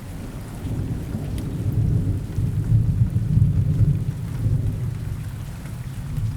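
Steady rain falling in a forest, with a low rolling rumble of thunder that swells a couple of seconds in and slowly fades toward the end.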